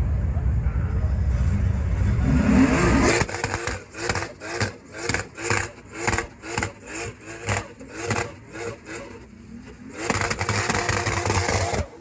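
Tuned Toyota Chaser drift car's engine running with a heavy low rumble and a rising rev, then being blipped repeatedly, about two sharp revs a second, before a longer held rev that cuts off abruptly.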